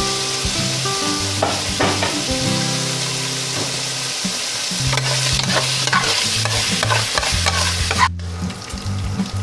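Bacon bits and diced ham frying in oil in a pan, sizzling steadily, with a few stirring strokes; the sizzle cuts out briefly about eight seconds in. Background music with held low notes plays along.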